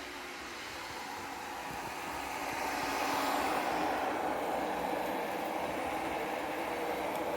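360 C50 robot vacuum cleaner running, a steady motor and fan whir that grows louder about three seconds in.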